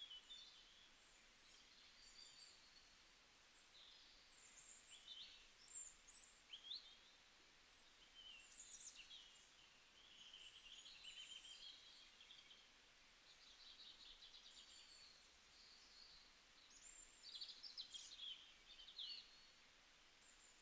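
Near silence, with faint birds chirping and trilling on and off in the background.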